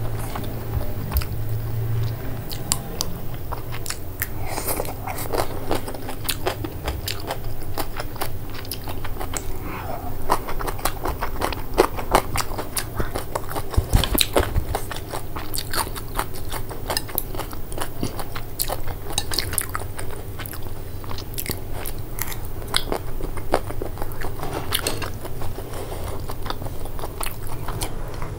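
Close-miked mouth sounds of a person chewing a mouthful of stir-fried noodles: a dense, irregular run of small clicks and smacks.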